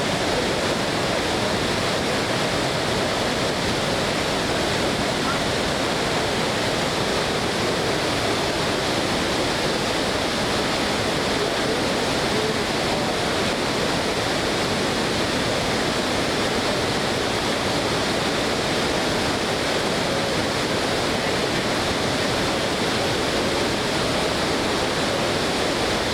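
Steady rush of a waterfall in flood, floodwater pouring over the falls in an even, unbroken roar.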